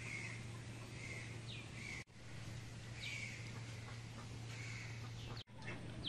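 Birds calling: short, repeated calls, some falling in pitch, over a steady low hum. The sound drops out abruptly twice.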